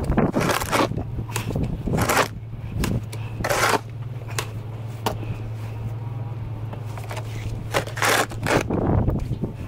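Snow shovel scraping over pavement in short strokes, about eight scrapes at irregular intervals, over a steady low hum.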